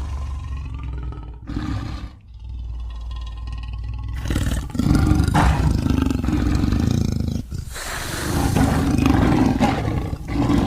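Big-cat growls and roars, a sound-effect voice for the extinct sabre-toothed Barbourofelis. Lower, quieter growls for the first few seconds, then louder roars from about four seconds in.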